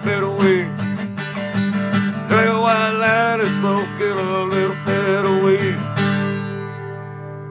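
Strummed acoustic guitar closing out a country-style song, with a held, bending melody line over it. About six seconds in a final chord is strummed and left to ring, fading slowly.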